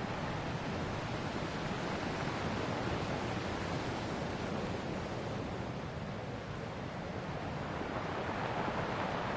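Ocean waves breaking and washing on a shore in a steady surf wash, swelling gently about every few seconds.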